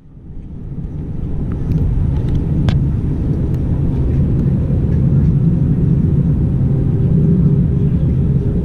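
Airbus A319 jet engines running: a steady low rumble that builds over the first couple of seconds and then holds, with a faint steady hum joining about six seconds in.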